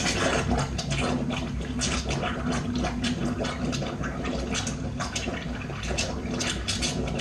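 Water running and splashing into a bathroom sink and down its drain, a steady rush with small irregular splashes: the drain passes water, so it is not clogged.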